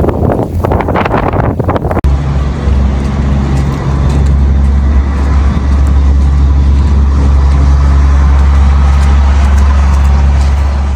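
A rough, gusty noise, then a sudden cut about two seconds in to the steady low rumble of a road vehicle's engine running.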